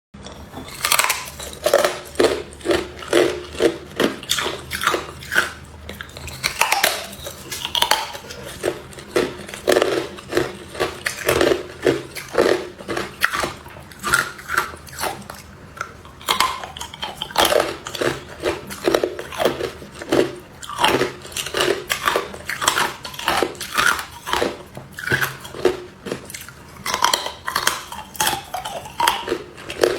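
A person biting and chewing hard clear ice: a dense, irregular run of loud, sharp crunches, several a second, all the way through.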